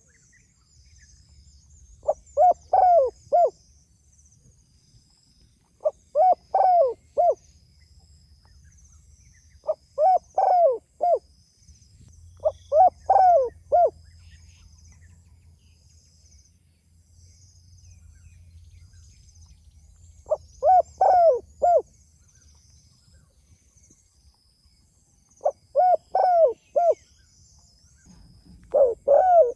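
Spotted dove (tekukur) cooing loudly and persistently: a phrase of four or five short, deep coo notes about a second long, repeated every few seconds with one longer pause midway. This is its call to other doves. Faint twittering of small birds sounds high in the background.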